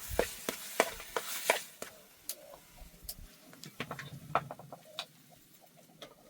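Cooking-utensil knocks and clicks: a quick run of sharp strikes, about three a second, for the first two seconds, then scattered lighter clicks.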